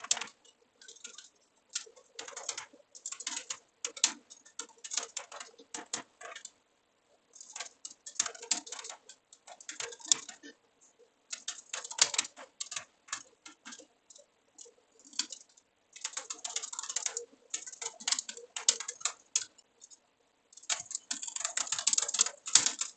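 Computer keyboard typing: quick runs of key clicks broken by short pauses.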